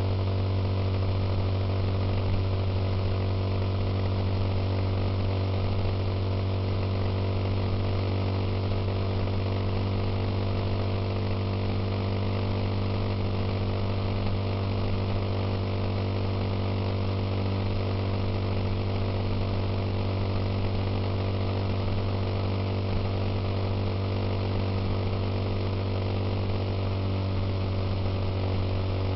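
Suzuki Intruder motorcycle engine running at a steady, unchanging speed while riding, with a constant low drone.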